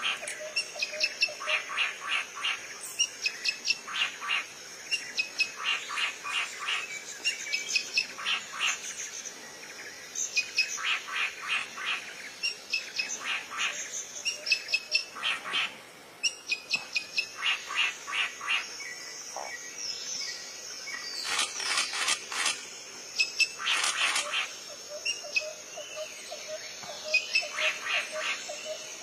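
A bird calling in repeated bursts of short, sharp, rapid notes, a burst every second or two, with brief lulls around the middle.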